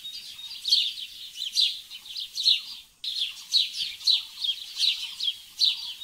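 Birds chirping: a steady run of high, quick downward-sliding chirps, about three a second, that drops out briefly about halfway through.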